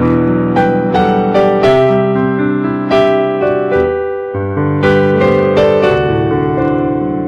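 Solo piano playing slow, sustained chords, with new notes struck about every half second to a second and a short lull a little past the middle.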